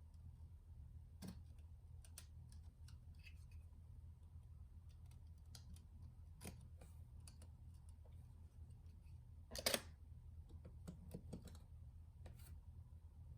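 Scattered small clicks and taps, with a louder brief clatter about ten seconds in, over a faint low hum: small parts being handled while a Nintendo Switch is worked on.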